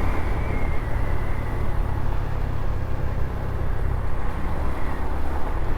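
Honda CT125's small single-cylinder engine running steadily while the bike is ridden.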